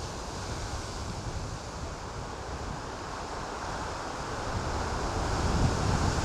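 Lake Erie waves washing against the shore, with wind buffeting the microphone. The surf grows louder near the end.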